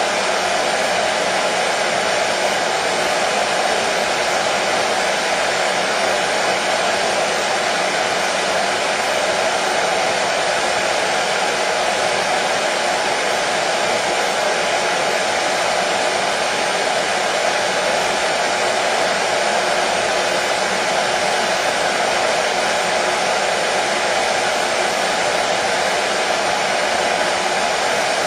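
Hair dryer running steadily: a constant whooshing of the fan and blowing air with a faint motor hum, unchanging throughout, used as white noise to settle a colicky baby to sleep.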